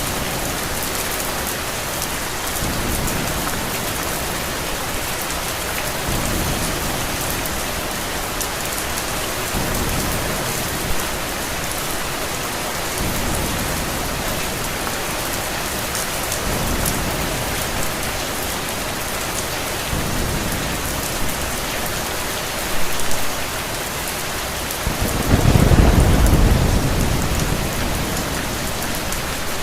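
Steady rain falling, with low thunder rumbling in slow swells every few seconds and one louder roll of thunder near the end. A couple of short, sharp sounds stand out briefly over the rain.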